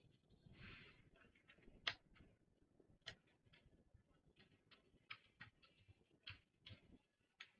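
Faint, irregular clicks and light taps of small tools and parts being handled while a graphics card is taken apart, one sharper click about two seconds in.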